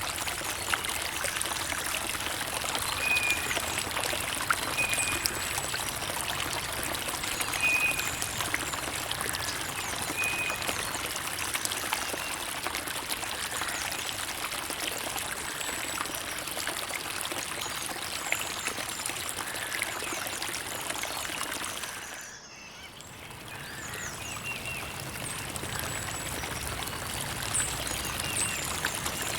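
Creek water trickling and babbling steadily over stones. A few faint short high chirps come in the first ten seconds, and about two-thirds of the way through the water briefly drops away and swells back.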